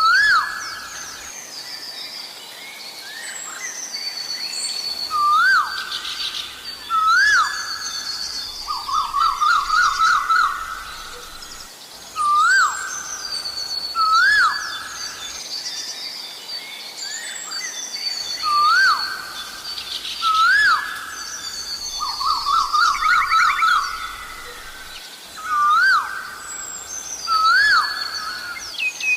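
Asian koel calling: short rising whistled notes, repeated again and again, with now and then a fast run of notes. Other small birds sing higher above. The same run of calls comes round about every twelve seconds.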